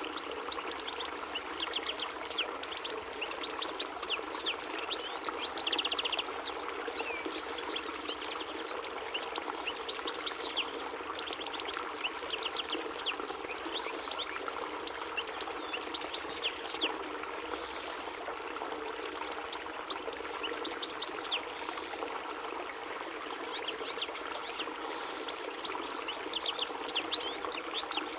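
European goldfinch singing: fast twittering phrases of high chirps and rattling trills, coming in bursts separated by brief pauses.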